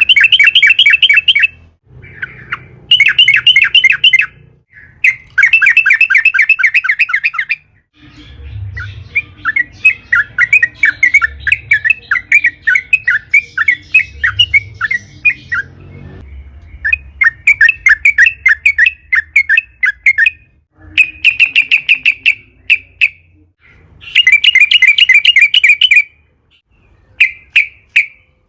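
Yellow-vented bulbul (trucukan) singing: repeated bursts of fast chattering notes, each a second or two long with short gaps between. In the middle comes a longer, looser run of notes over a low rumble.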